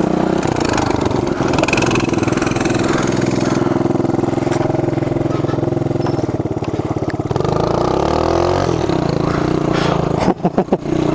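Mini bike engine running steadily as the bike is ridden, then its pitch climbs and shifts about seven and a half seconds in as it is revved.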